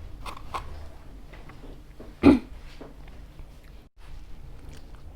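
Quiet pizza-eating sounds with a few soft mouth clicks, then one short, loud throat sound about two seconds in.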